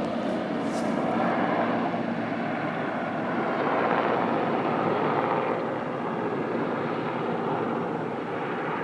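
Helicopter in flight: steady engine and rotor noise that swells and eases slightly.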